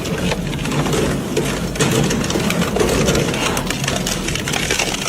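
Machinery running steadily, with a dense irregular clatter of clicks and knocks.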